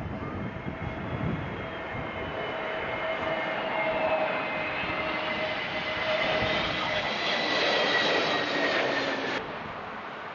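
Jet airliner's engines whining over a broad rush as the plane passes on approach. The whine grows louder, then cuts off suddenly about nine seconds in.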